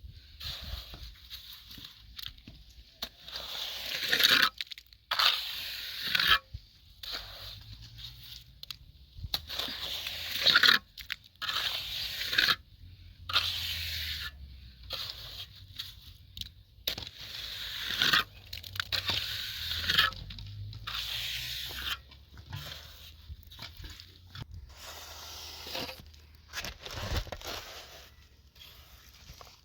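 Repeated rough scraping strokes, one every second or so, with short pauses between them.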